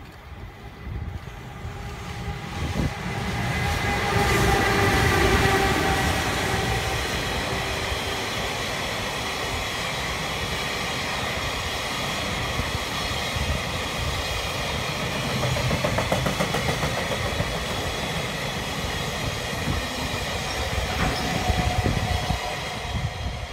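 An EF210 electric freight locomotive approaches and passes with a humming whine, loudest a few seconds in. A long train of loaded tank cars then rolls past with a steady rumble and the rhythmic clatter of wheels over rail joints.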